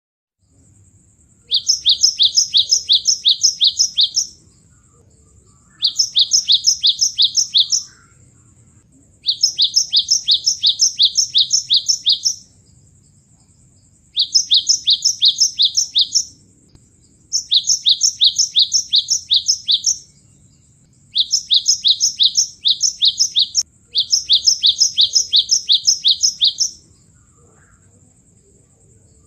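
Cinereous tit (gelatik batu) song, played back as a bird lure: seven near-identical phrases of quick, high, repeated notes, about four notes a second, each phrase two to three seconds long with short gaps between. A faint steady high tone runs under the song.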